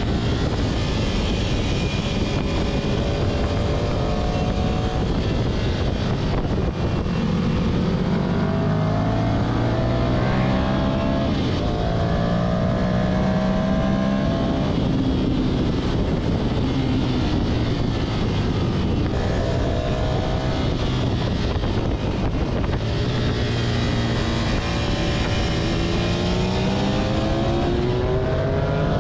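Ducati Monster 659's L-twin engine heard from an onboard camera, revs climbing and dropping back as the rider accelerates and shifts up, with a steadier stretch in the middle. Heavy wind rush over the microphone runs under the engine.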